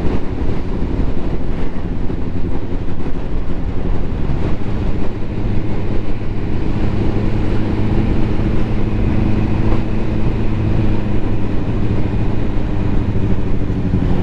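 Ducati motorcycle engine running fairly steadily while the bike is ridden along the road, with road and wind noise under it.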